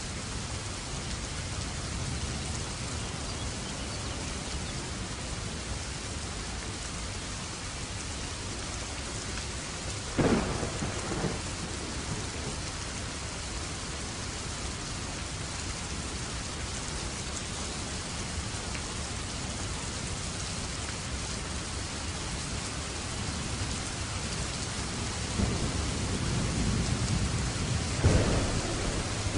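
Steady heavy rain with thunder: a sharp thunderclap about ten seconds in, then a low rumble that swells a few seconds before the end and peaks in a second loud crack.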